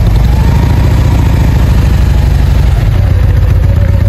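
Harley-Davidson touring bagger's V-twin engine idling steadily.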